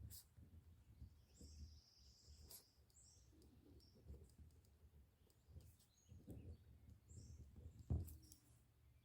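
Faint birdsong: short, high chirps in scattered clusters, over low rumbling noise, with one soft thump about eight seconds in.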